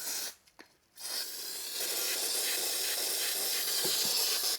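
Aerosol brake cleaner spraying, used to wash out a reusable motorcycle oil filter element. There is a short burst, a brief pause, then a long steady hiss that cuts off suddenly.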